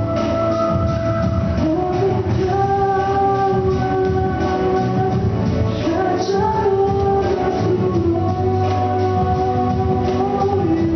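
A girl singing a song over a backing track with a steady drum beat, holding long notes.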